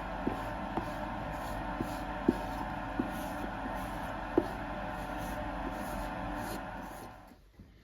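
A workshop machine motor running steadily, with irregular sharp knocks, then switched off and running down near the end.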